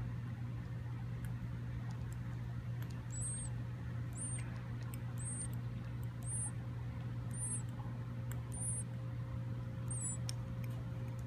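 Nestling bird peeping: about seven short, very high squeaks, roughly one a second, starting about three seconds in, over a steady low hum.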